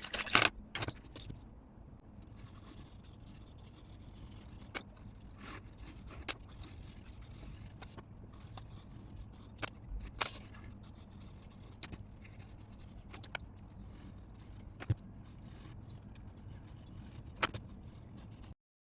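Colour pencils scratching faintly on cardstock, with scattered light clicks and taps, one of them louder, as pencils are handled and set down over a low steady hum. The sound cuts off suddenly near the end.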